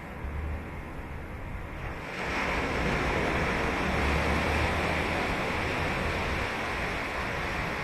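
Ocean surf washing on a sandy beach: a quieter wash that swells about two seconds in as a wave breaks, then a sustained loud rush of foam, with wind rumbling on the microphone.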